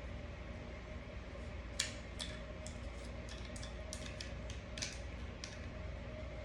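Scattered light clicks and scrapes from handling pistol parts and cleaning tools while cleaning a Smith & Wesson M&P 9mm, the sharpest about two seconds in and again near the five-second mark, over a steady low hum.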